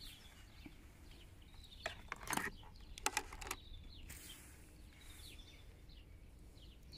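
Faint bird chirps in the background, with a few brief soft knocks or rustles in the middle.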